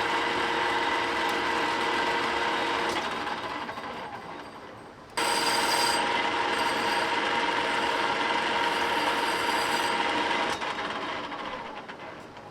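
Machine tool running while machining a forklift rim, a steady motor tone mixed with cutting noise. It winds down about four seconds in, starts again abruptly about a second later, and winds down again near the end.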